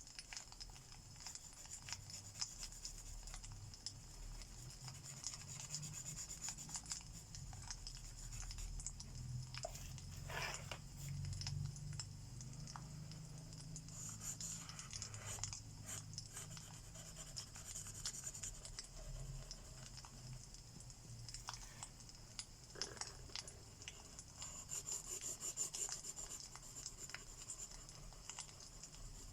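Alcohol marker tips rubbing and scratching across paper in short strokes, with a soft fireplace crackle and low rumble underneath.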